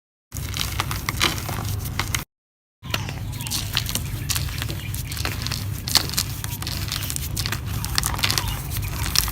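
Dry mud and cement being crumbled: a dense run of small gritty crackles and crunches. It breaks off twice into dead silence at edit cuts, just at the start and again about two and a half seconds in.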